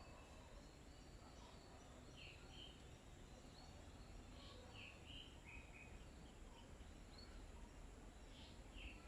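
Faint bird chirps: short calls repeated every couple of seconds over a steady background hiss, with a thin, steady high insect-like drone.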